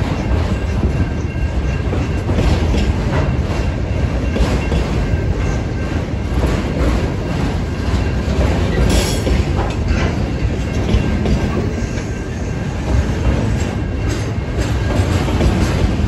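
Autorack freight cars rolling past: a steady rumble of steel wheels on rail, with clicks and clacks as the wheels cross rail joints, and a sharper click about nine seconds in. A faint, steady high ringing runs under it.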